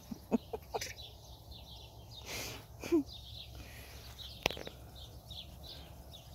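Outdoor ambience with a bird chirping repeatedly in short, high, falling notes, about two a second from partway in. There are a few faint clicks, a brief rustle, and one sharp click along the way.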